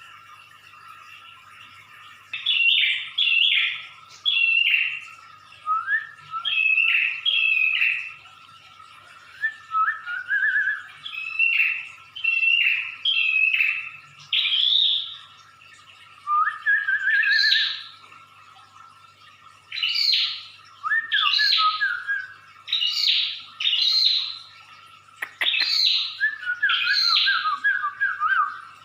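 Prinia (prenjak) calling persistently: loud, short, harsh chirps repeated in quick groups of two or three, with occasional fast rattling phrases, over a steady faint hum.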